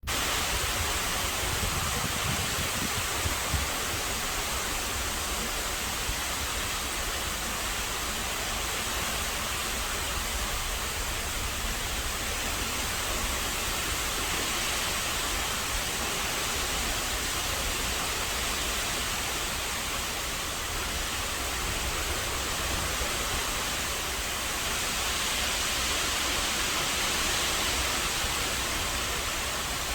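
Rain pouring steadily during a thunderstorm, a constant even hiss.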